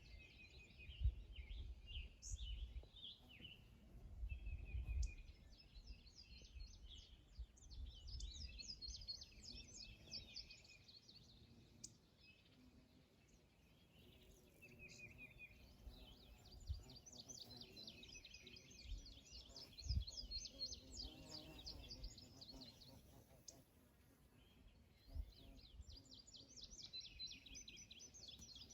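Birds singing faintly, with fast chirping trills that come in runs of several seconds, over a few dull low thumps.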